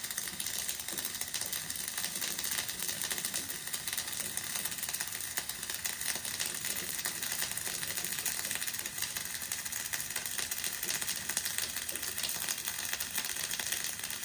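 Flux-cored arc welding running a bead: a steady, dense crackle of fast sputtering clicks.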